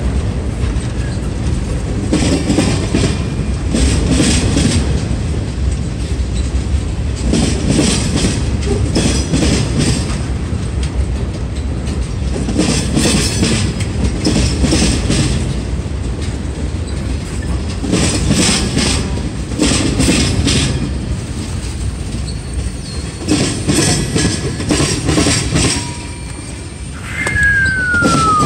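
Norfolk Southern freight train of boxcars rolling past at low speed: a steady rumble with the wheels clacking over the rail joints in pairs every few seconds. Near the end a single short squeal falls in pitch as the last car goes by.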